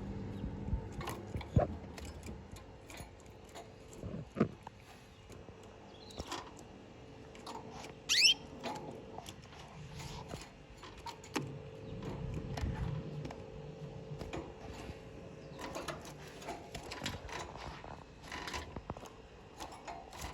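Caged canaries moving about, with scattered small clicks and rustles and one short rising chirp about eight seconds in, over a faint steady hum.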